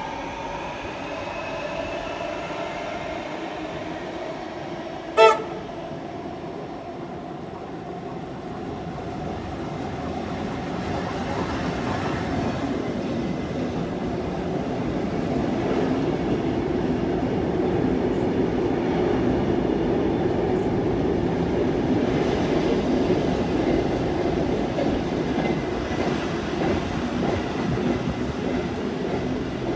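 1910s-built Tait electric train running past, its motors and wheels growing louder as it comes alongside and then easing slightly as it moves off. One short toot of a horn about five seconds in.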